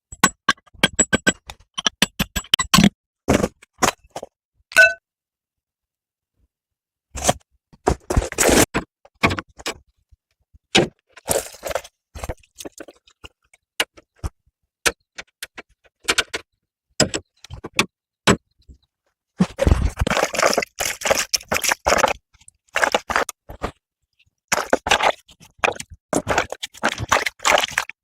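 Metal parts and hand tools clanking, clicking and scraping during car repair work, in irregular bursts. About five seconds in, one metal strike rings briefly. Near the end there are longer stretches of dense scraping.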